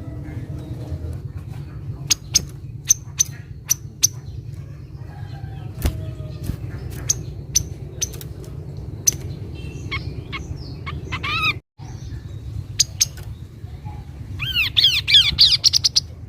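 Kaso-kaso bird calling: sharp, high, isolated chip notes, then a few down-slurred notes, and near the end a quick run of descending notes, over a steady low background rumble.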